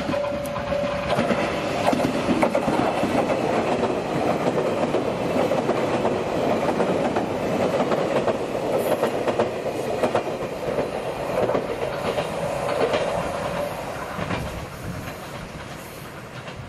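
A train running through the station, its wheels clattering over the rail joints, the sound fading away over the last few seconds.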